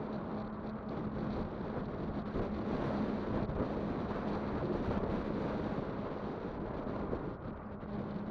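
Kugoo Kirin V5 electric bike being ridden, with wind buffeting the microphone over the rolling noise and a steady low hum running through it. The rushing noise swells in the middle and eases toward the end.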